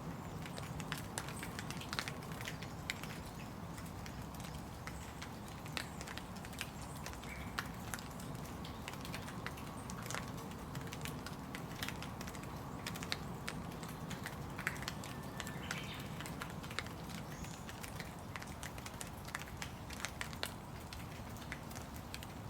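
Steady rain falling, with many irregular close drips tapping and crackling on surfaces.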